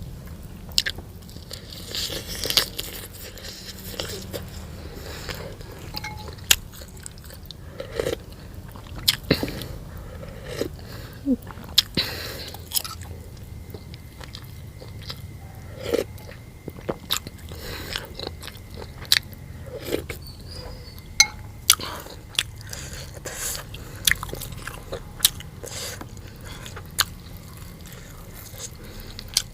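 A person eating at close range: chewing with irregular bites, crunches and sharp mouth clicks and smacks.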